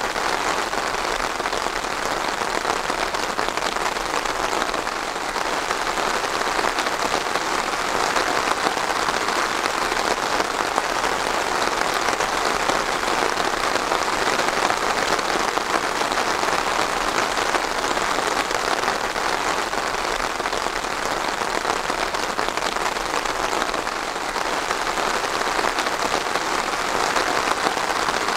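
Steady rain falling on a surface: a dense, even hiss made of countless small drop hits, unchanging throughout.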